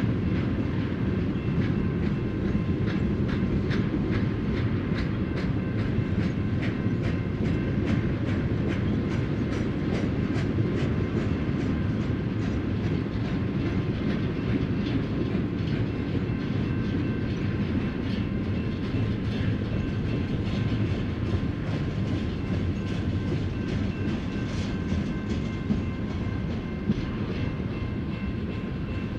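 Double-stack intermodal well cars rolling past at speed: a steady rumble of steel wheels on rail with a continuous run of wheel clicks, and a faint high ringing held steady above it.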